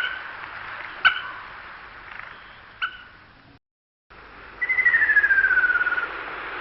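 Wild bird calls: three short, sharp calls about a second apart, then, after a brief break, a different bird's rapid trill that falls steadily in pitch for about a second and a half.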